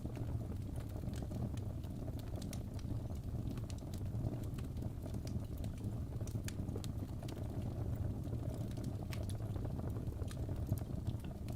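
Fire burning in a fireplace: a steady low rush of flames with scattered sharp crackles and pops throughout.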